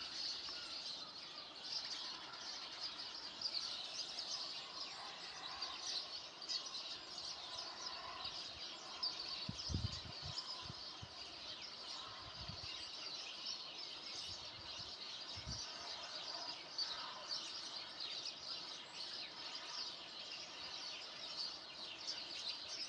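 Many small birds chirping and twittering continuously, a dense chorus of high calls. A few low thumps come in the middle.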